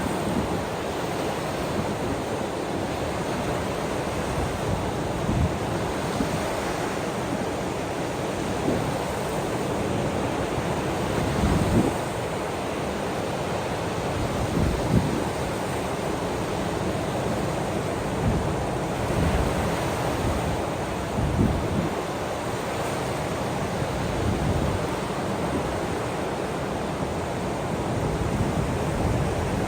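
Ocean surf washing steadily, with wind buffeting the microphone in irregular low gusts every few seconds.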